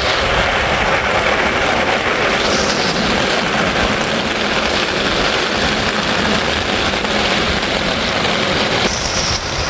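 Heavy rain pouring down: a steady, loud hiss.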